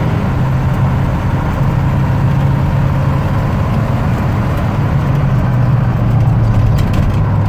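1974 Chevrolet K10 pickup's engine running steadily under way, heard from inside the cab with road noise, its note easing down slightly about five seconds in.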